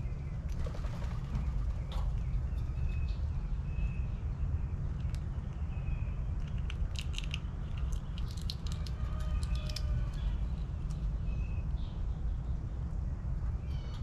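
Garden birds chirping in short, repeated calls, with a busier run of quick high chirps and clicks around the middle, over a steady low rumble.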